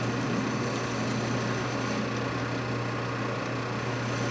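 Metal lathe running steadily while rough-cutting a part toward size: a constant motor hum under an even cutting noise.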